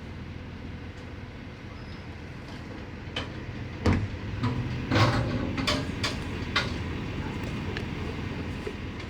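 Steady low mechanical rumble, with a series of sharp knocks and clanks between about three and seven seconds in.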